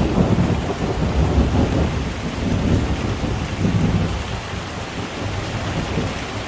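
Heavy rain falling, with a deep rumble underneath that eases near the end.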